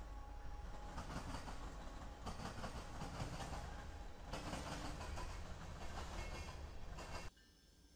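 Freight train passing: locomotives running with a low rumble and cars rolling over the rails. The sound grows louder about halfway through and cuts off abruptly shortly before the end.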